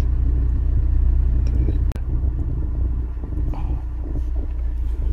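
Honda S2000's four-cylinder engine idling, heard from inside the cabin as a steady low rumble, with a single sharp click about two seconds in.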